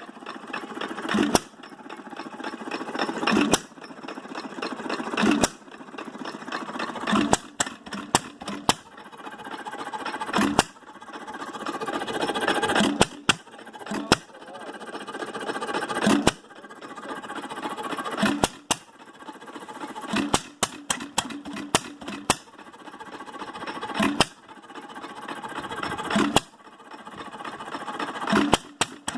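Hit-and-miss engine running: a sharp firing bang about every two seconds, sometimes two or three in quick succession, with the engine coasting and clattering between firings as its governor lets it fire only when it slows.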